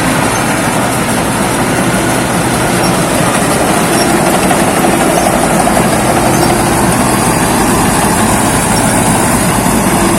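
Thai Seng rice combine harvester running steadily, its engine and machinery making a loud, even mechanical noise.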